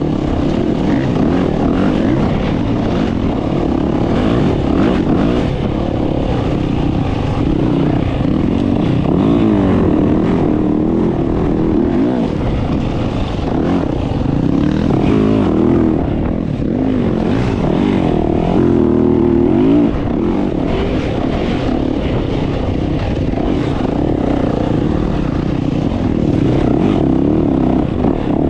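Dirt bike engine running under riding load, its pitch rising and falling again and again as the throttle is worked along the trail.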